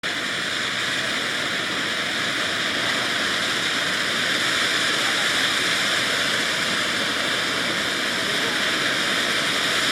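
Ground fountain firework spraying sparks: a steady, loud hiss that swells slightly, with no bangs or crackles.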